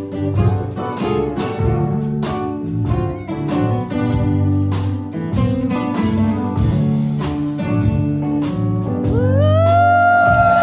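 Live rock band playing an instrumental passage with guitar and a steady drum beat. About nine seconds in, a lead note slides up and is held.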